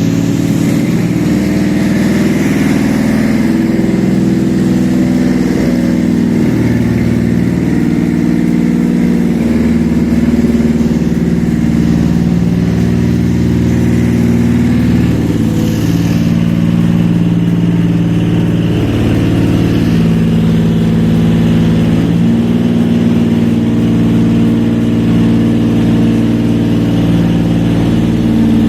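Toyota 1MZ V6 engine running steadily on a test stand, its speed shifting slightly now and then, as a used engine is run to check its condition.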